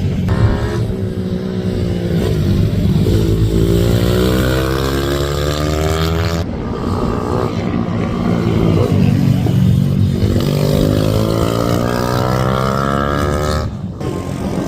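Racing minibike engines accelerating hard, their pitch climbing steadily as they rev up. This happens twice, and each time the sound breaks off abruptly.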